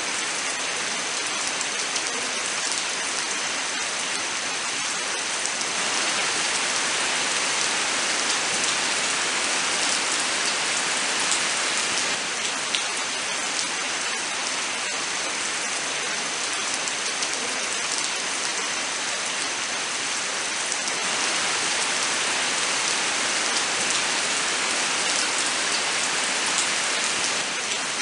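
Steady rain falling, an even hiss with scattered sharp drop ticks, swelling a little louder twice for several seconds.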